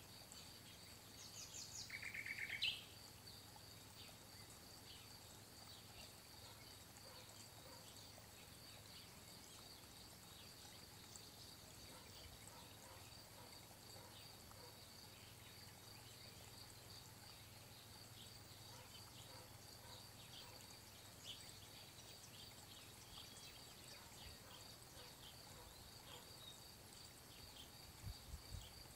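Quiet outdoor garden ambience with a short bird call about two seconds in, then faint scattered chirps over a steady faint high tone. A few low bumps come near the end.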